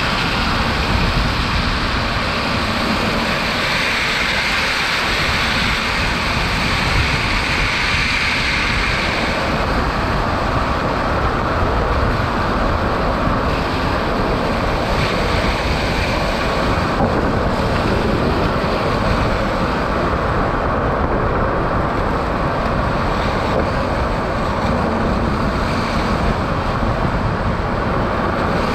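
Steady road noise of an electric Tesla Cybertruck driving at highway speed: a constant rush of tyre and wind noise with no engine sound.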